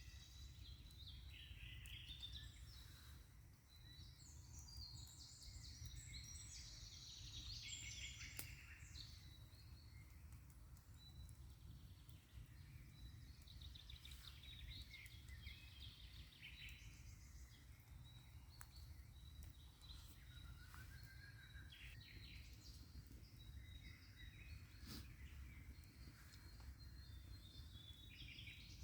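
Faint songbirds singing and calling in a forest, several short chirps and trills overlapping, over a steady low rumble; two brief sharp clicks, about eight seconds in and again later.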